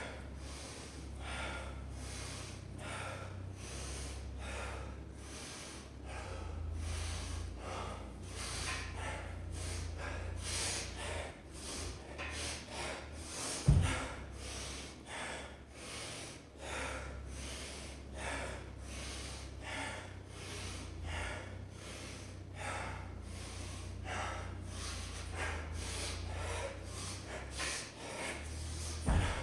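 A person breathing hard and fast through the nose and mouth, about two breaths a second, winded from deadlifts and chin-ups. A sharp thump sounds about halfway through and another near the end, over a steady low hum.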